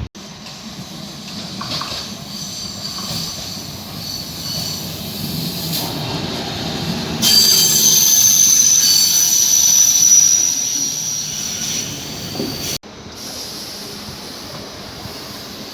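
A train moving through the station, its steel wheels squealing on the rails. The high-pitched squeal is loudest and steadiest for about five seconds in the middle, over a low rumble. Near the end the squeal cuts off abruptly, leaving a quieter train rumble.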